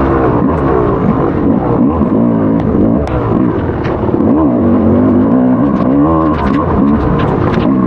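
Motocross dirt bike engine being ridden hard on a race track. The pitch rises and falls every second or so as the throttle opens and closes, with scattered sharp clicks.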